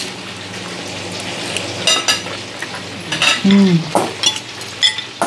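Chicken pieces sizzling steadily as they fry in a pan, with a utensil clinking and scraping against the pan as they are stirred. A brief low falling tone comes a little past the middle.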